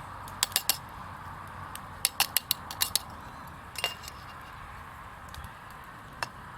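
Metal utensil clicking and clinking against cookware in a run of sharp taps: three quick taps, then a faster cluster of about six, then two single taps.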